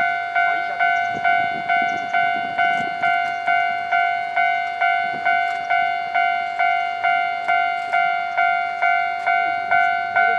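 Railway level crossing warning bell ringing steadily at about two strikes a second, signalling that a train is approaching and the crossing is closed.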